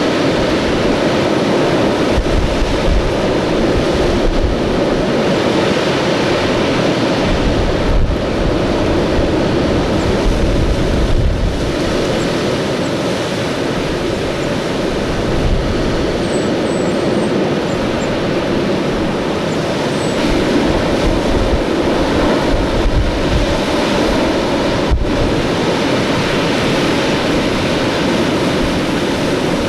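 Storm-force wind blowing hard and unevenly, buffeting the microphone with low rumbling gusts. A few faint high bird chirps come through about halfway.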